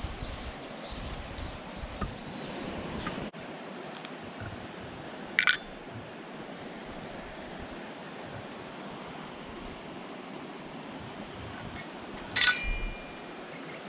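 Two sharp clinks about seven seconds apart, the second with a brief ringing tail, over a steady rushing background noise.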